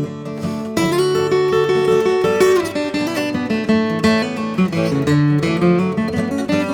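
Acoustic guitars playing an instrumental passage without singing: a picked melody line over strummed chords, with a fresh phrase starting about a second in.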